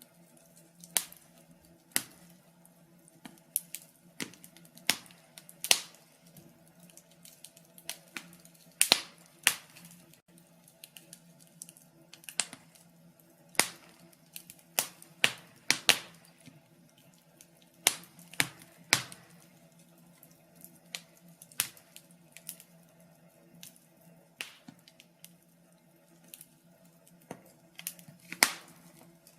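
Wood fire crackling: sharp irregular pops and snaps, about one or two a second, some much louder than others, over a faint steady low hum.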